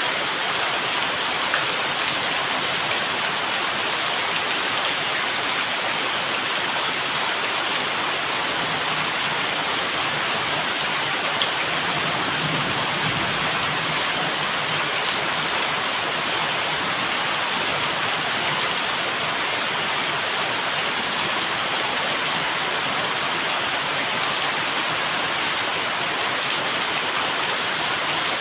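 Steady rain falling, an even hiss that holds level throughout without breaks.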